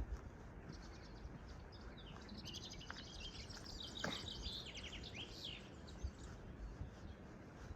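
Small songbirds chirping and trilling, several calls overlapping and busiest in the middle, over a steady low rumble of background noise.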